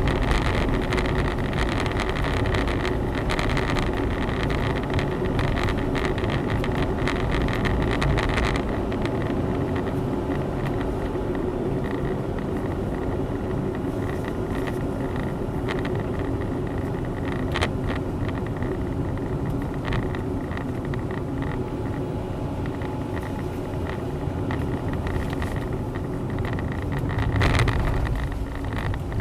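Honda Zest 4WD kei car driving, with steady engine and road noise heard from inside. Louder for the first eight seconds or so, it then eases off, and it swells briefly again near the end.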